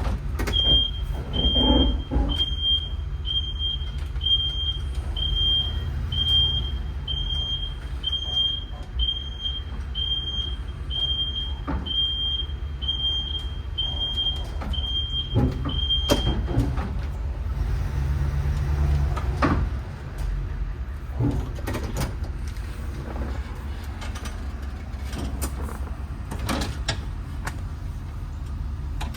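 Ford E350 step van's engine running with a steady low rumble, while a high warning chime beeps about once a second for roughly sixteen seconds and then stops. Scattered clicks and knocks sound over the engine.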